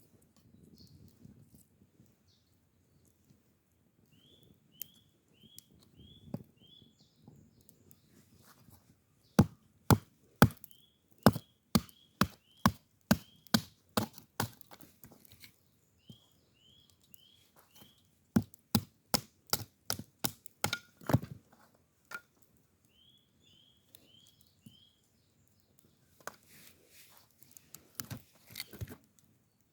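Wood being chopped: a run of about a dozen sharp strikes, two to three a second, then after a pause about eight more. A bird calls in short chirps in runs of four or five between and over the strikes, and there is some rustling near the end.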